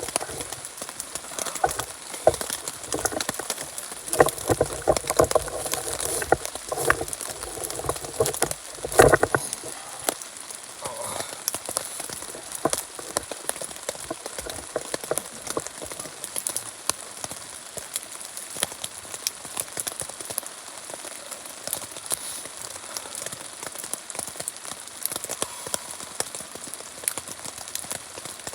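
Rain falling on the fabric of a teepee tent, heard from inside as many small irregular drop hits. In the first ten seconds or so there are louder knocks and rustling from movement inside the shelter.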